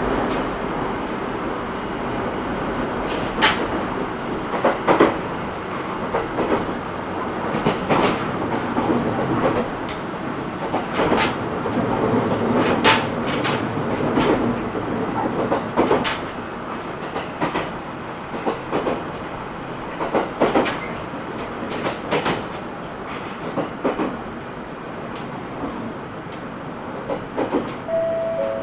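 Cabin running noise of an E127 series 0 electric train under way: steady rumble with wheels clacking over rail joints in irregular sharp clicks.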